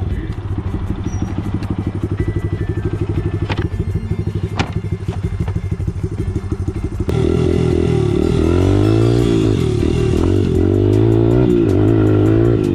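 Dirt bike engine running with rapid, even firing pulses. About seven seconds in the sound cuts abruptly to a louder stretch where the engine pitch repeatedly rises and falls as it is revved.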